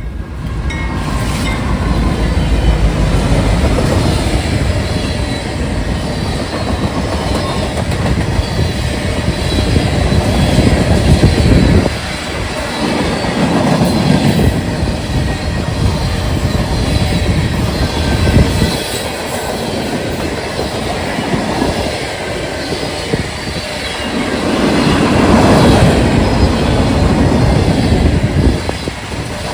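A train rolling past on the rails, its wheels clattering steadily with some wheel squeal. The sound swells and eases several times as the cars go by.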